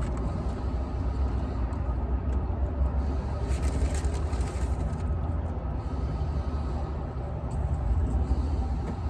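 Steady low rumble of a car running, with an even wash of noise over it.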